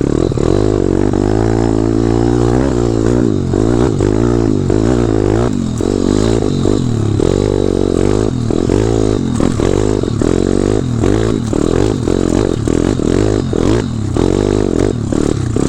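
Dirt bike engine revved in short, repeated throttle bursts, its pitch rising and dropping again and again as the bike is worked over rough off-road ground, with scattered knocks and rattles from the bike.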